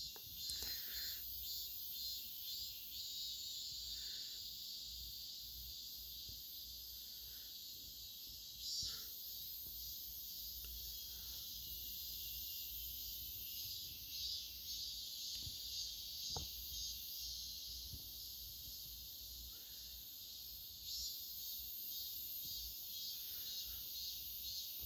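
Faint, steady high-pitched chirring of insects in the background, with a few soft scattered ticks.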